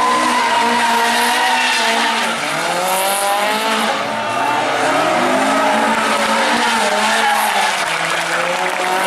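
Rally car engine running hard, its pitch climbing and dropping several times as the driver shifts gears and lifts off.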